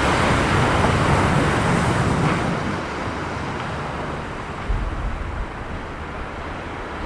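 Rough sea surf washing in and breaking, loudest in the first couple of seconds and then easing off. Wind buffets the microphone about two thirds of the way through.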